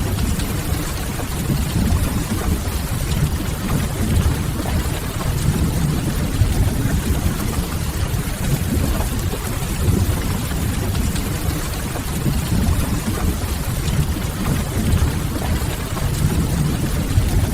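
Steady rain ambience with a low rumble underneath and a soft crackle of burning firewood, constant throughout.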